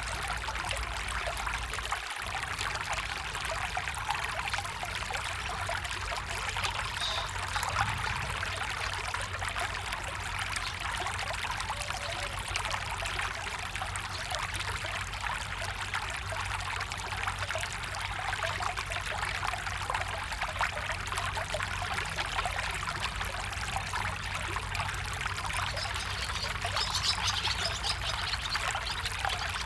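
Running water of a stream, a steady trickling rush.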